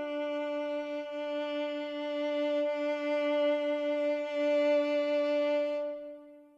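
Background music: a bowed string instrument, likely a violin, holding one long sustained note with vibrato that fades out near the end.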